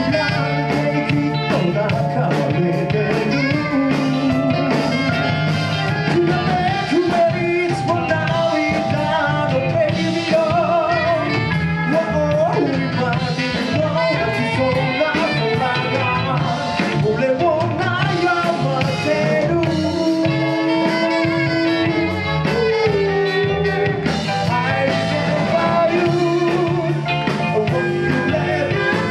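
Live band music: a band playing a song with a steady beat, guitar and a wavering lead melody line over it.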